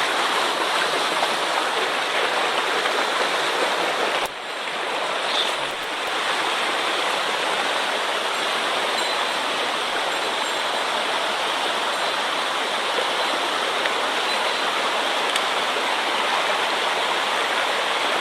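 Rushing water of a mountain stream swollen after a typhoon: a steady, even roar of fast-flowing water, briefly dipping about four seconds in.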